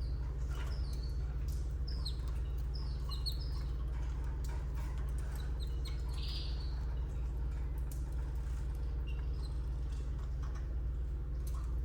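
Canaries giving short, high chirps scattered throughout, busiest in the first half, over a steady low electrical hum.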